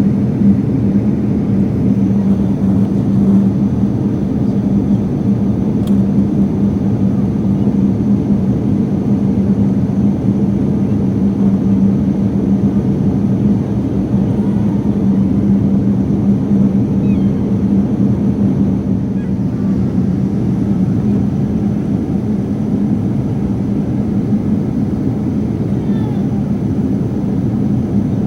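Steady noise inside an airliner's passenger cabin in flight: engine and airflow noise, heaviest in the low range, with a constant low hum running through it.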